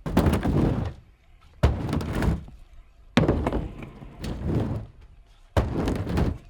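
Four heavy thuds about a second and a half apart, each dying away over about a second.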